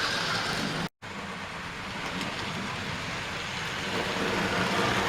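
00 gauge model trains running on the layout: a steady noise of small electric motors and wheels on the rails. The sound drops out completely for a moment about a second in.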